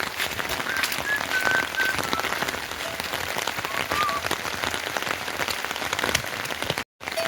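Heavy rain falling steadily, drops pattering densely on surfaces, with a few short high chirps over it. The sound cuts out for an instant near the end.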